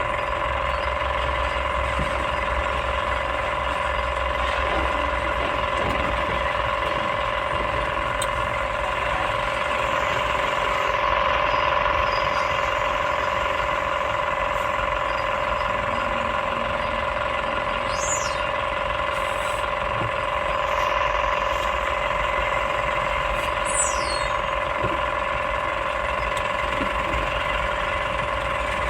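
Excavator engine and hydraulics running steadily with a constant drone-like whine. Two brief high-pitched squeaks come in the second half.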